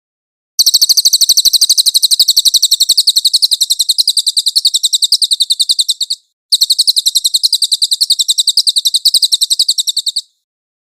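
Songbird masteran recording: a fast rolling, rapid-fire 'tembak' song of high notes repeated about seven times a second, in two long runs separated by a brief pause about 6 s in.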